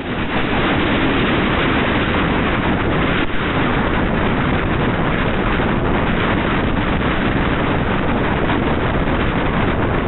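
Wind buffeting the microphone: a steady, loud rushing noise with no rhythm that starts abruptly at a cut.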